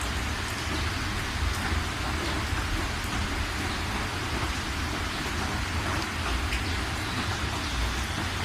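Steady rain falling: an even hiss with scattered sharp drop taps and a low rumble underneath.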